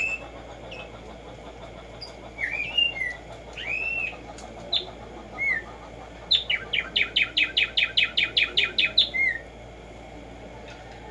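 Black-striped sparrow (tumba yegua) singing. A few scattered slurred whistles come first. About six seconds in, they give way to a rapid, evenly spaced series of sharp notes, about five or six a second for three seconds, ending on a slurred note.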